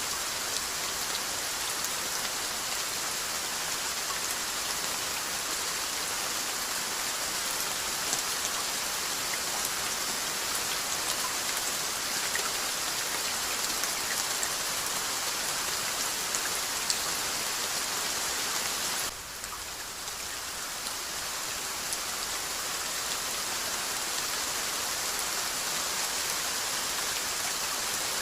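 Steady rainfall, an even hiss of drops with scattered faint patters, briefly dipping in level about two-thirds of the way through before resuming.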